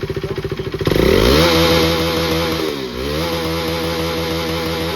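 KTM RC 390 BS3's single-cylinder engine and exhaust idling with an even pulse, then revved hard about a second in and held at high revs, dipping briefly near the middle before rising again.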